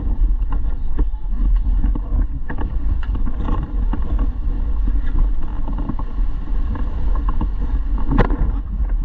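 River water rushing around a paddled raft, with wind buffeting the microphone and scattered short knocks and splashes, the sharpest one near the end.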